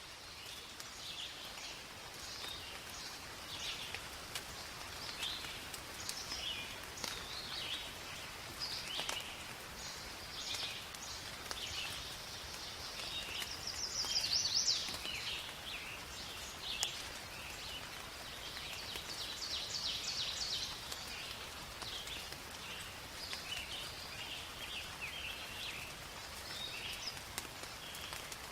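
Steady rain falling in a forest, with many birds calling and chirping throughout; one louder, longer bird call stands out about halfway through.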